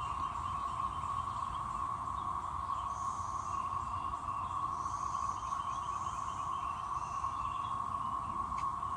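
Chorus of 13-year periodical cicadas, a loud, steady, unbroken drone, with faint intermittent higher chirps above it.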